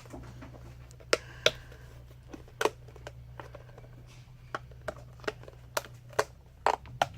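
Sharp clicks and light taps at irregular intervals as a plastic liquid-soap bottle is handled and opened, over a steady low hum.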